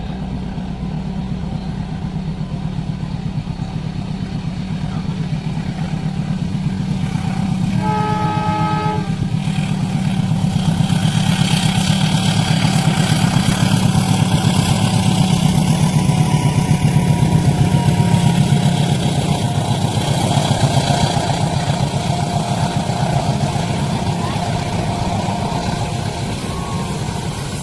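A train passing a level crossing at speed, with a steady low rumble. A horn sounds once, briefly, about eight seconds in. Wheel and rail noise then swells and is loudest in the middle of the pass.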